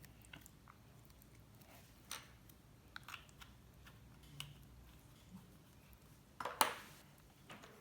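Slime being handled and squeezed: scattered soft clicks and crackles, with a louder squelch about six and a half seconds in.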